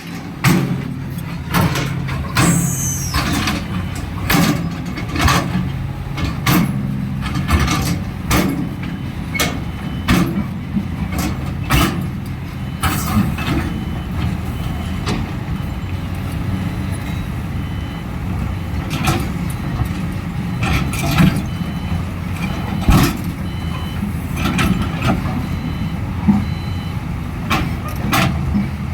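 Excavator diesel engine running steadily under a stream of irregular metallic clanks and knocks from the working machine. A brief falling squeal sounds about two and a half seconds in, and a faint repeated beeping comes in for a few seconds midway.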